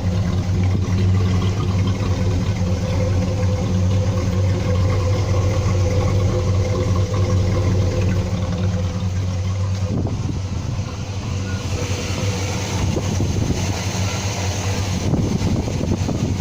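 Small-block Chevy V8 in an S10 running through a Magnaflow exhaust, a steady note for about ten seconds that then turns rougher and noisier.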